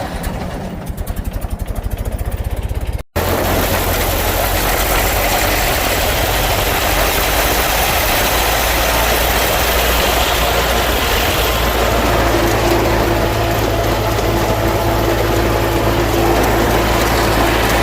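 1928 Ford Model A's four-cylinder flathead engine idling with an even, rapid firing beat. After a sudden break about three seconds in comes a louder, steady drone of the engine running with rushing road and wind noise, and a faint steady whine joins about twelve seconds in.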